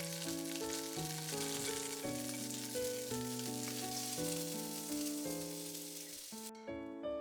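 Food sizzling in a hot pan, a dense steady hiss that cuts off suddenly about six and a half seconds in, over soft piano music.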